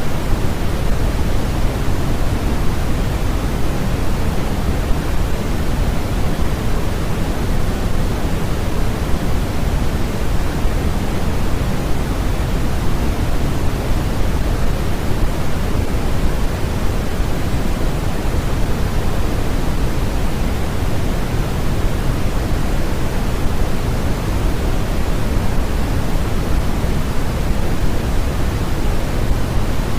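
Steady, unchanging electronically generated noise, heavier in the bass than the treble, so deeper than flat white noise, like pink noise.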